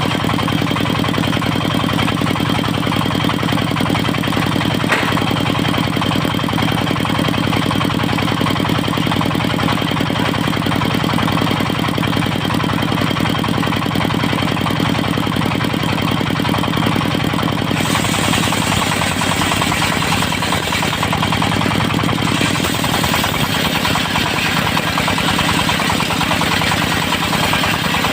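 Diesel engine driving a portable circular sawmill, running steadily. About eighteen seconds in, a loud high hiss joins in and carries on.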